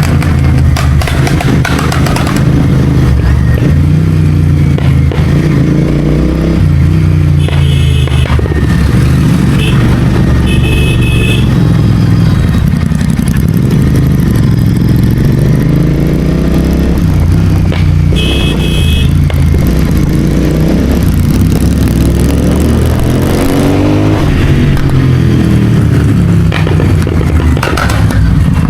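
Royal Enfield Continental GT650's 648 cc parallel-twin engine, CODE6-tuned with a Red Rooster aftermarket exhaust, running under way, its pitch rising and falling repeatedly as it is revved and eased off through the gears. A vehicle horn honks briefly three times, about eight seconds in, near eleven seconds, and again about two-thirds through.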